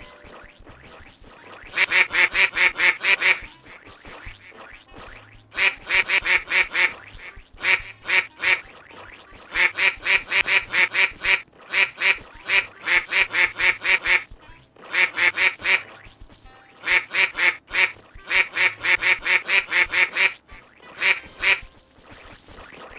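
A bird calling in rapid runs of harsh, repeated notes, about eight a second. The runs come in bouts of one to two seconds with short pauses between them.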